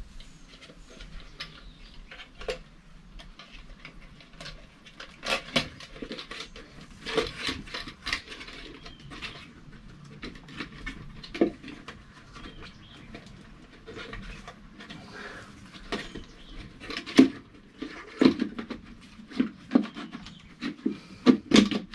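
Irregular clicks, knocks and rattles of the air filter being handled and fitted back into its housing on a New Holland Workmaster 40 tractor, with a run of louder knocks in the last few seconds.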